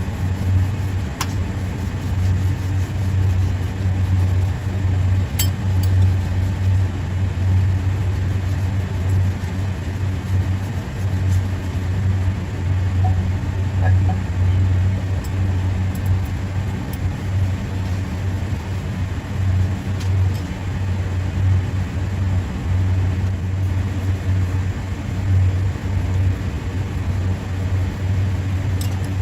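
Steady, loud low machinery hum, with a few faint light clicks scattered through it.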